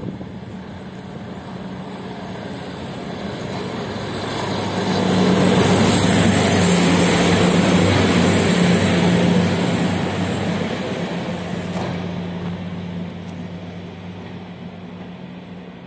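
PKP Energetyka diesel overhead-line maintenance train passing through a station: engine drone and wheel-on-rail noise build up, peak as it goes by about five to ten seconds in, then fade as it pulls away.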